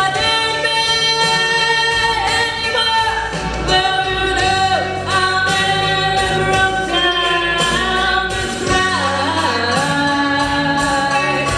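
A solo voice singing long held notes with a slight waver, over a steady musical accompaniment.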